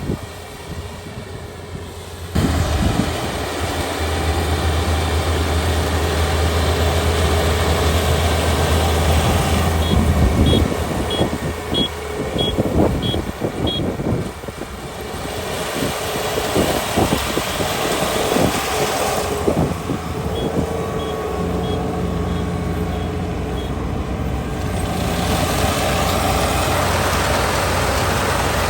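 Kubota ER572 combine harvester's diesel engine running under load with a steady low drone, growing louder about two seconds in, over the clatter of its cutting and threshing works. Two runs of short, high, evenly spaced beeps sound partway through.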